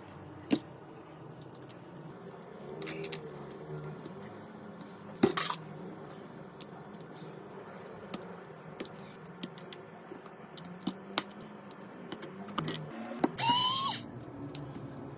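Small hand tools and phone parts clicking and tapping against a hard work surface, with two short, louder bursts of noise, one about five seconds in and one near the end.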